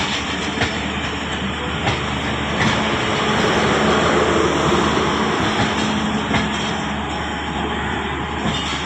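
Passenger train running: a steady rumble with a low hum and scattered sharp clanks from the wheels and couplings.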